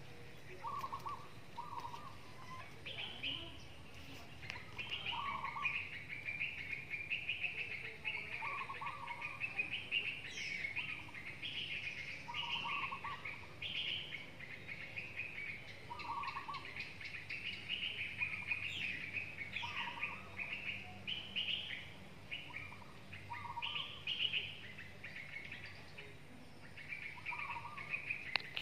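Birds chirping and twittering without a break. A lower, short call repeats every couple of seconds beneath the higher chirps.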